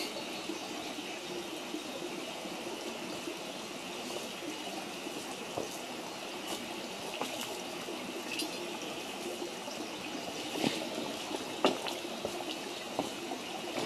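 Wood fire burning with a steady hiss and crackle, and a few sharp pops, more of them in the second half.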